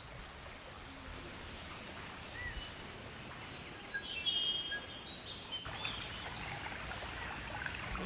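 Scattered bird chirps and calls over a steady outdoor background hiss, busiest around the middle.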